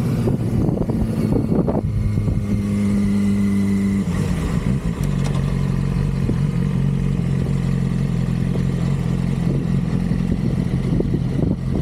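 2006 Yamaha R6's 600 cc inline-four engine running at steady revs, with its note shifting in pitch about two seconds and again about four seconds in, then holding steady.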